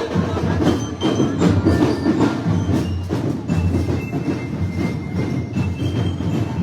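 Carnival parade music carried by percussion: dense drumming with many sharp, clacking strikes, and a few short high steady tones in the middle.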